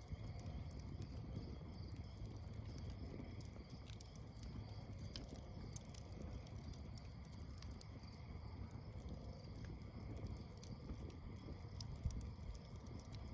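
Campfire crackling faintly, with scattered small pops and one sharper pop near the end, over a low steady rumble.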